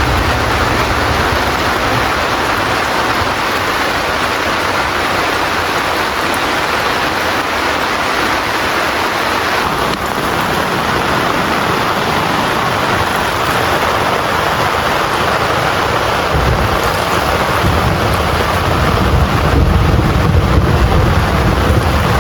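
Heavy rain pouring steadily. A low rumble joins in a few seconds before the end and grows louder.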